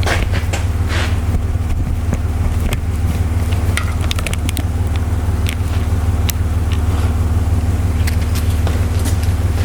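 A truck engine idling steadily in the background as a low, even drone, with scattered light clicks and clinks over it.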